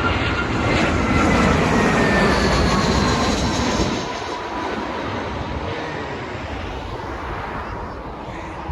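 Jet airliner on landing approach passing close by, engine noise with a whine that falls in pitch as it goes past. The noise is loudest for the first few seconds and then fades away.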